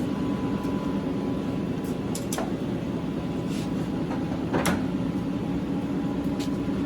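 Large 75-inch Tru-Turn engine lathe running, a steady hum of its drive and gearing, with a few sharp ticks, the loudest about four and a half seconds in.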